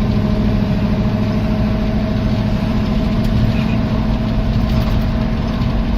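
Old Ford pickup's engine running steady and unrevved, heard from inside the cab while driving, with its motor still cold from sitting.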